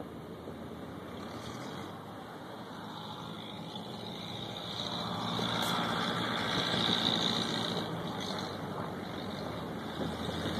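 Car driving, its engine and road noise heard from inside the cabin, swelling for a few seconds midway.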